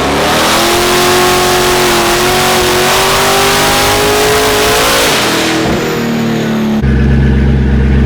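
Twin-turbo C6 Corvette ZR1 V8 pulling hard under full throttle on a chassis dyno in third gear, its pitch climbing steadily, then lifting off about five seconds in; near the end a steady lower drone takes over.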